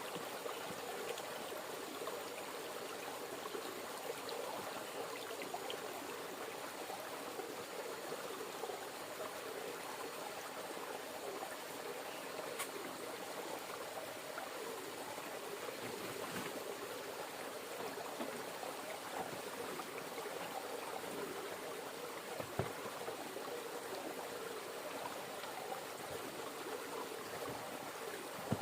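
River water flowing steadily, with a few faint clicks scattered through it.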